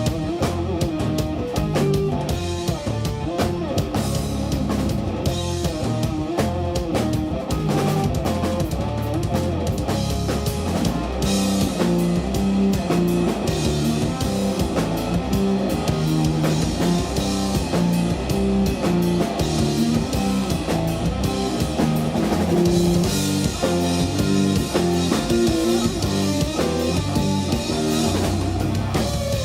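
A live instrumental jazz-rock band playing: electric guitar lines running in quick notes over bass and a drum kit.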